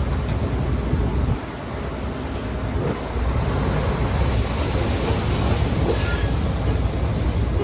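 Shantui heavy bulldozer working stone: steady engine rumble under a rough, grinding rattle of metal and rock, with a brief high squeal about six seconds in.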